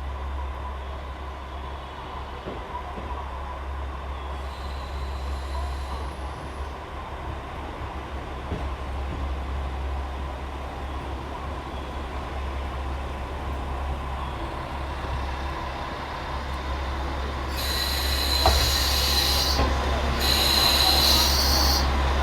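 Komatsu diesel engine of a KiHa 40-series railcar idling with a steady low rumble. About three-quarters of the way in, a loud high hiss joins it and breaks off briefly twice.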